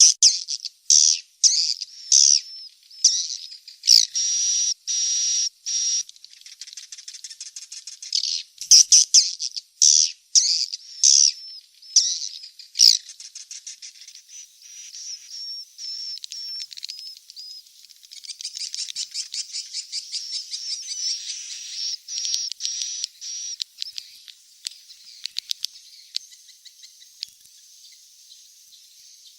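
Edible-nest swiftlets twittering: dense high chirps and buzzing trills mixed with rapid clicking trains. The calls are loud and choppy for about the first half, then settle into quieter, fast, continuous chittering. This is the swiftlet chick call used as a lure recording to draw swiftlets to roost in a swiftlet house.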